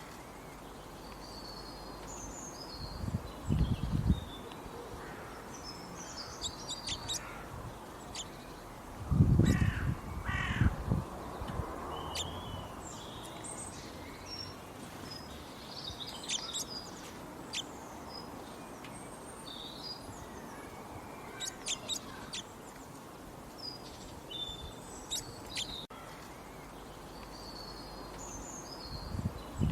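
Several birds chirping and calling in short, scattered phrases over a steady low background hiss. Loud low rumbles break in three times: a few seconds in, about a third of the way through, and at the very end.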